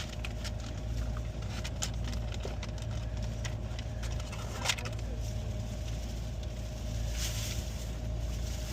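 Car engine idling with a steady low hum, with scattered light clicks and knocks and one sharper click about halfway through.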